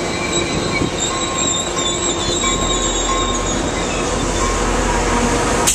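Coaster commuter train's bilevel passenger cars rolling past with a steady rumble of wheels on rail and a thin, wavering high-pitched wheel squeal through the first half. A single sharp click near the end.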